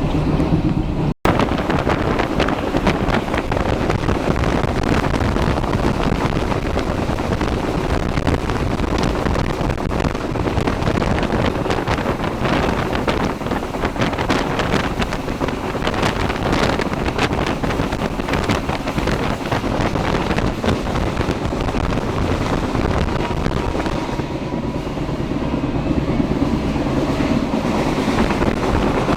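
Passenger train running along the track: a steady rumble with repeated clicks of the wheels over the rail joints, and wind buffeting the microphone. The sound cuts out briefly about a second in.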